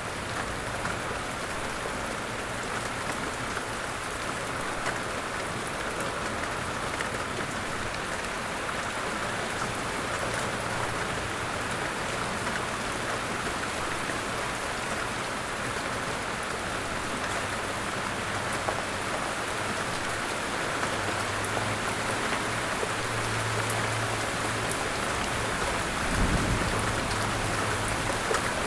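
Steady rain falling in a dense, even patter, with a brief low rumble near the end.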